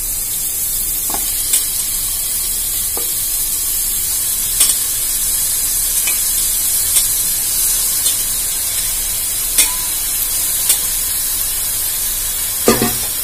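Onions, green chillies and ginger-garlic paste frying in an aluminium pressure cooker as washed goat head pieces go in. It is a steady sizzling hiss with scattered light clicks and a louder knock near the end.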